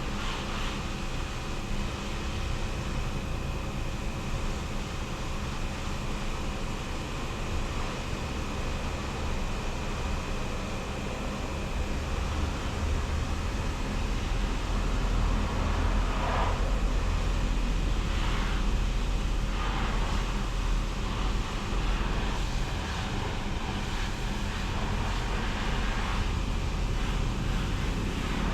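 Automatic car wash machinery running: a steady mechanical hum with a noisy spray, a deeper rumble building from about halfway through, and a few brief swishes.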